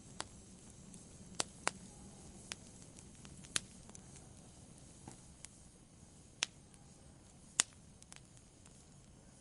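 Fireplace fire crackling: sharp, irregular pops, about ten of them and a few much louder than the rest, over a soft steady hiss.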